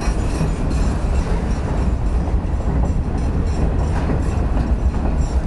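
Freight train cars rolling past close by: a steady, loud, heavy rumble with a continuous clatter of wheel clicks on the rails.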